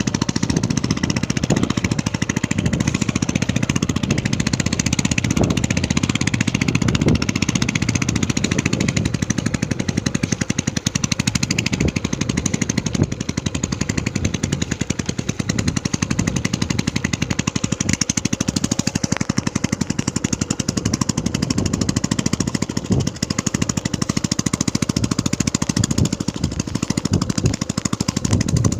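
A small engine running steadily with a fast, even thumping pulse.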